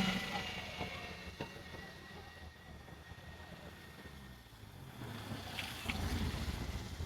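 Vehicle noise dying away, then a low rumble building again about five seconds in, with two brief high squeaks.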